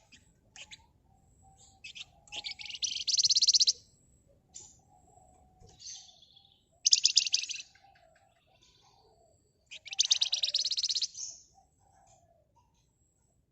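Flamboyan (wergan Jawa) songbird singing in three bursts of very fast, high, rattling trills about a second each. Short high chips fall between the bursts.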